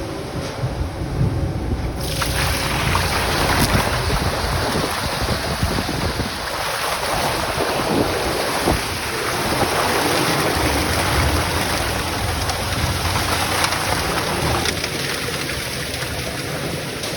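Steady, loud hiss of a hose spraying to rinse a ready-mix concrete truck's chute, starting suddenly about two seconds in, over the low rumble of the truck's running diesel engine.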